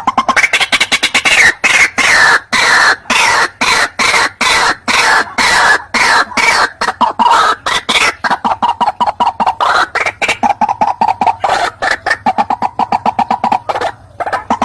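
White-breasted waterhen calls as a lure recording: a loud, rapid series of harsh repeated notes, slower and falling in pitch in the first half, then quickening to a steady chatter of about six notes a second, with a brief break near the end.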